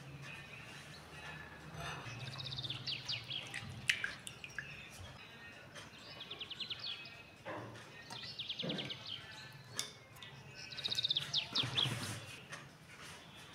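Birds chirping in repeated quick trills, with a few sharp clinks of a utensil against a glass bowl.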